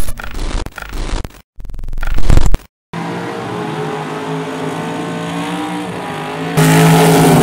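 Drag race car engines running near idle with small rises and dips in pitch, jumping noticeably louder a little over halfway through. The first three seconds are choppy edited bits, sharp knocks and a loud rising burst, broken by two sudden dropouts.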